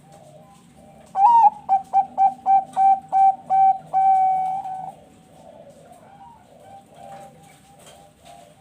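Zebra dove (perkutut bangkok) singing its cooing song: an opening note that rises and falls, about eight short clipped coos at three to four a second, then a final coo held for about a second. Other doves coo faintly in the background.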